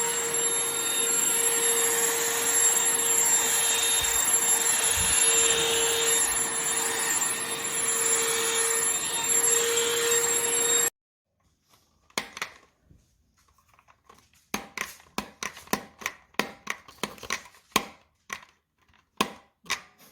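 A Shark CH950UKT handheld cordless vacuum running with a steady hum and high whine, which stops abruptly about eleven seconds in. After a short quiet, a run of irregular sharp clicks and knocks follows.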